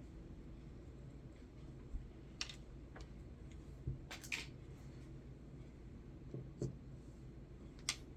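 A few soft, short clicks and rustles of small objects being handled, over a steady low room hum.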